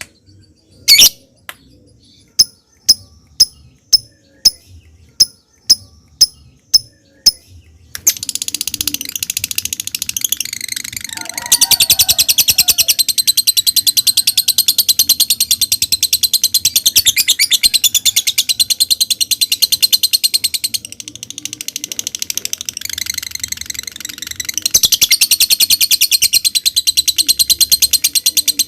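Lovebird calling: a string of sharp single chips, about two a second (the 'ngetik' typing call), then a long, fast, unbroken high chatter (the 'ngekek' call). The chatter eases off for a few seconds about two-thirds of the way through and then picks up again.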